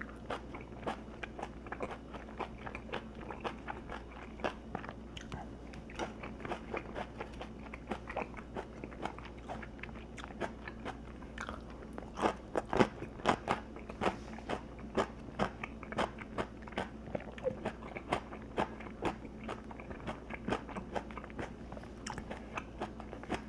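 A person chewing crunchy food close to the microphone, a steady run of crisp crunches and bites that grows louder and denser about halfway through. A faint steady hum lies underneath.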